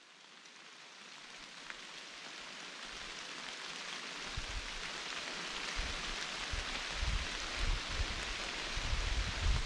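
Steady rain falling on the forest leaves, a fine even hiss fading in over the first seconds, with low, irregular rumbles on the microphone from about four seconds in.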